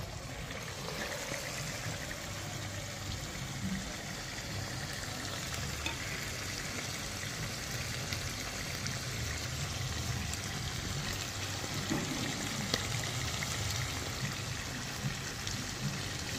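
Chicken salt curry (uppu kari) frying in oil in a pan: a steady sizzle with a few small clicks.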